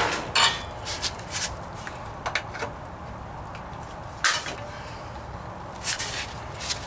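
About seven light, irregularly spaced knocks and clinks of sheet-metal stock and hand tools being handled during hand-forming of a bead in a steel patch panel. The sharpest knock comes a little past the middle.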